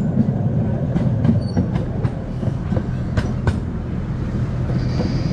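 Miniature park train running along its narrow-gauge track: a steady low rumble and hum, with a few sharp clicks and rattles from the running gear.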